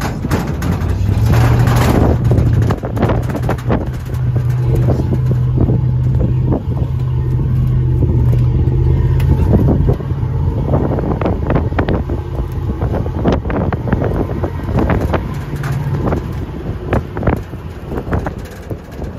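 Open-air 4x4 tour truck driving off-road: the engine runs steadily, its note rising about a second in and dropping back about halfway through, while the body knocks and rattles over the rough track, with wind on the microphone.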